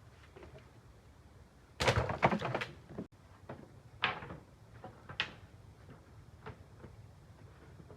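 Wooden knocks and clatter: a loud burst of several rapid knocks about two seconds in, then single sharp knocks roughly a second apart, the last one faint.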